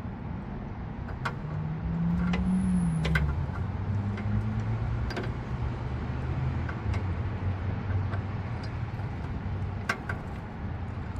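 A motor vehicle engine running nearby, its pitch rising and falling a couple of seconds in and then holding steady, with scattered light clicks and taps of hand tools on metal.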